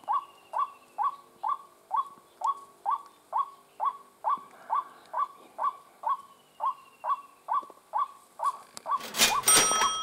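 White-breasted waterhen calling: a steady, even run of short, hooked notes, a little over two a second. About nine seconds in, a loud rustling burst briefly covers the calls.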